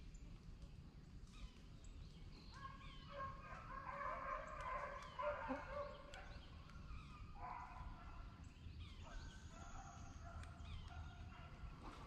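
Faint calls of birds in swampy woodland: short high chirps, then from about three seconds in a run of overlapping, drawn-out calls that come and go.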